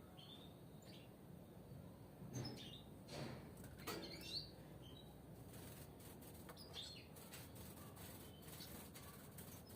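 Caged European goldfinches giving a few short, faint chirps between about two and four and a half seconds in, among scattered faint clicks and flutters.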